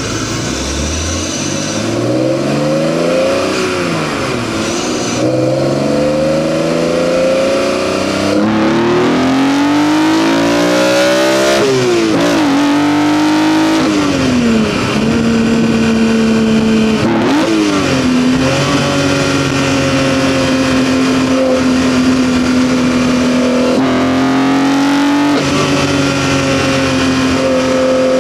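BMW E46 M3's S54 3.2-litre inline-six with a Turner CSL carbon airbox, Megan headers and stock muffler, heard from the engine bay with strong intake noise. It rises in pitch several times, each climb breaking off with a sudden drop, then holds a nearly steady engine speed through the second half.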